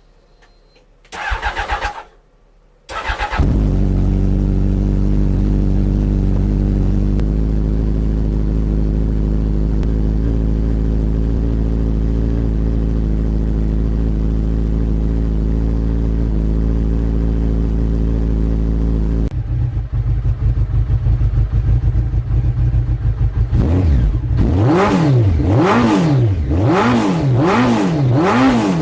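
Honda X-11's inline-four engine with a Yamamoto aftermarket exhaust, cold-started after sitting about five months: the starter cranks briefly, cranks again and the engine catches. It idles high and steady, settles to a lower idle about two-thirds through, then is blipped in a run of quick revs near the end.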